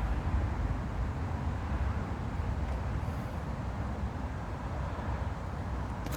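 Steady low rumbling background noise with no clear pitch, and a few faint clicks right at the end.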